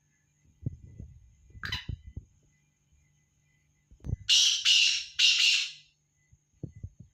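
Black francolin calling: a short harsh note, then a few seconds later a loud grating call of three harsh notes in quick succession. Low knocks and thumps are heard around the calls.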